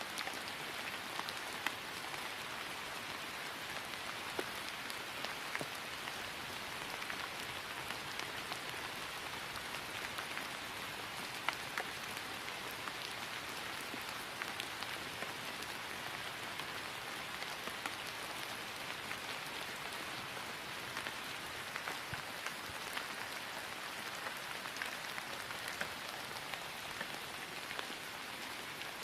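Steady rain falling on grass: an even hiss with many close, scattered drop taps.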